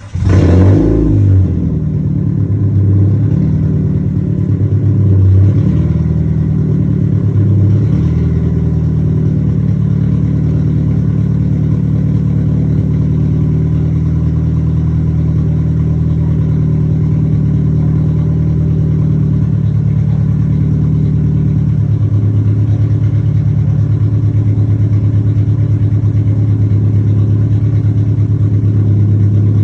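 Dodge Neon's four-cylinder engine with a straight-piped exhaust catching on a cold start, flaring briefly a few times, then settling into a steady, loud idle. The idle note changes about two-thirds of the way through.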